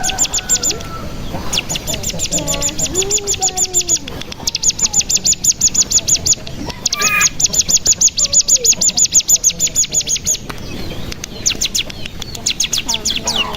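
Ciblek gunung song: a fast rattling trill ('ngebren') of quick repeated high downward notes, about ten a second, coming in runs of two to three and a half seconds with short breaks between them. Fainter, lower wavering calls sound beneath it. It is a lure song meant to set other ciblek gunung singing.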